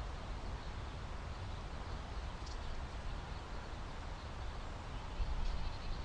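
Steady outdoor background noise picked up by a trail camera's microphone: a low rumble with a thin hiss over it, swelling briefly louder about five seconds in.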